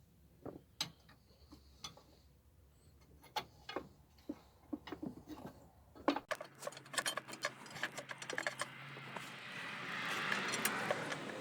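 Scattered light metallic clicks and taps, turning into a denser scraping rattle about halfway through that swells near the end, as the cut-off, corroded dipstick tube of a Subaru EJ25 engine is worked free and pulled out.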